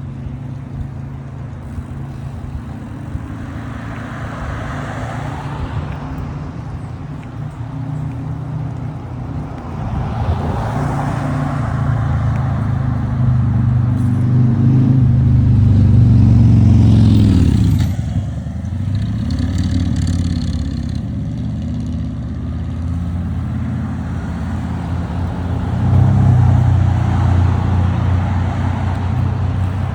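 Road traffic passing a bicycle: cars go by with a constant low rumble underneath. The loudest car builds up to about halfway through and falls away suddenly, and another passes near the end.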